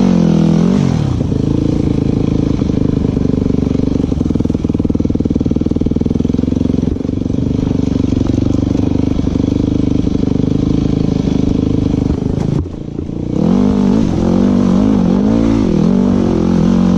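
Off-road motorcycle engine running at a steady speed, then dropping off briefly about twelve and a half seconds in before picking up again with the revs rising and falling.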